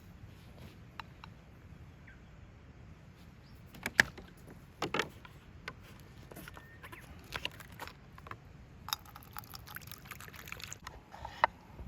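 Camp cooking gear being handled: scattered sharp knocks and clacks, the loudest about four seconds in, then a couple of seconds of rustling near the end.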